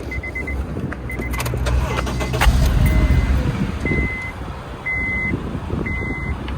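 Car warning chime beeping, at first in quick groups and then singly about once a second, with a low rumble and a sharp click about two and a half seconds in.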